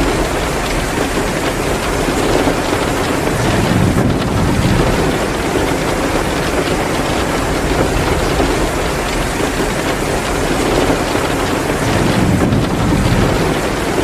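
Heavy rain pouring down steadily, a dense even hiss, with a low rumble swelling up twice, once a couple of seconds in and again near the end.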